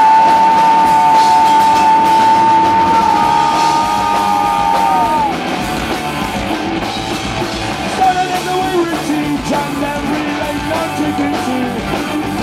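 Punk rock band playing live, with drums and guitars; a long held high note for the first five seconds bends down and breaks off before the band plays on.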